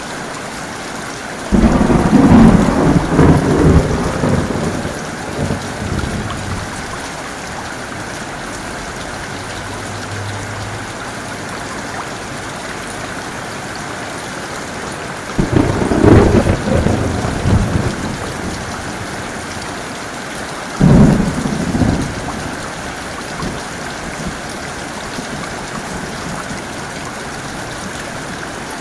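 Steady heavy rain with three claps of thunder. The first breaks about a second and a half in and rumbles on for several seconds. The second comes about halfway through and the third, shorter and sharper, a few seconds later.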